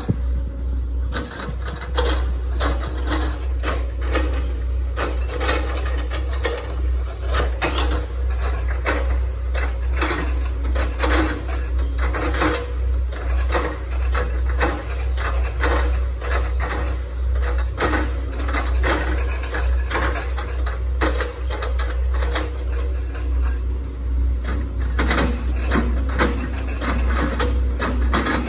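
Hitachi ZX110 MF excavator working, its engine giving a steady low drone under frequent irregular cracks and crunches, typical of the bucket chopping through oil palm trunk.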